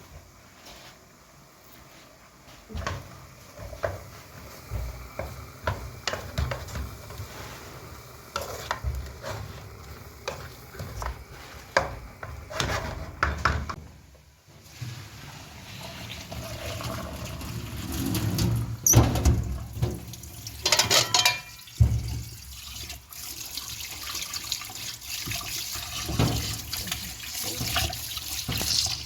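Water splashing and pouring, mixed with irregular knocks and clatter of handling, loudest for a few seconds past the middle.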